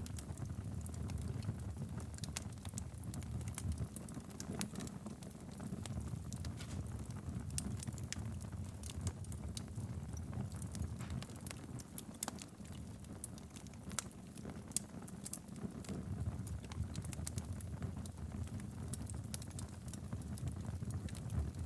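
Wood campfire burning: a steady low rumble of the flames with irregular sharp crackles and pops from the burning wood.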